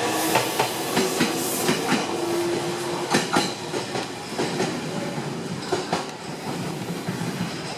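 Meitetsu electric train running along the platform, its wheels clicking over rail joints and points. A low steady hum sounds for the first couple of seconds, and the sound slowly fades as the train moves on.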